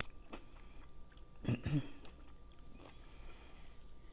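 A person chewing and biting food close to the microphone, with scattered short wet clicks of mouth and lips. One louder, lower mouth sound comes about a second and a half in.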